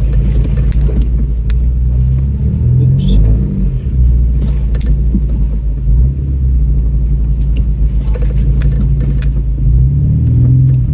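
Off-road truck engine running at low revs as it crawls over trail rocks, with a few short knocks from the truck jolting over them.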